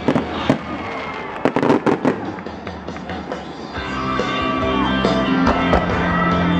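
Fireworks going off: a quick run of sharp bangs and crackle in the first two seconds, then scattered bangs, over music with long held notes that swells about four seconds in.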